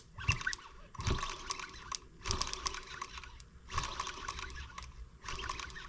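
M25 sideshaft engine being turned over by hand with its spark plug out to check for spark: four or five bursts of rapid clicking and rattling, each about a second long, with a low thud at the start of several.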